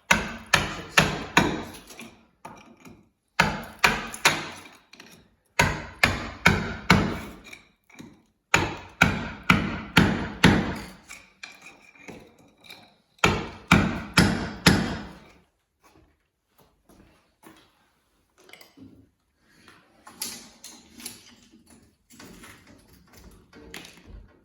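Repeated hammer blows in quick runs of several strikes, about three a second, with short pauses between runs. After a lull, fainter strikes come near the end.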